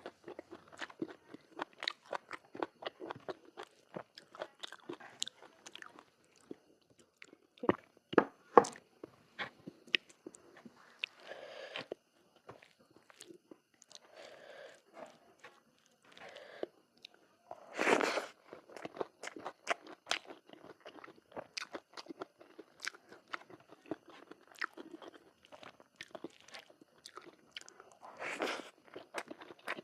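A person chewing and biting food close to the microphone, with dense crunchy, moist clicks throughout and a few sharper bites about eight seconds in. A longer noisy sound, the loudest in the stretch, comes about eighteen seconds in.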